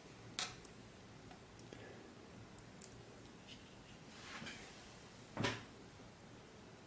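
A watercolour brush working on paper: a few faint taps and soft rustling dabs over quiet room tone, with one louder short tap about five seconds in.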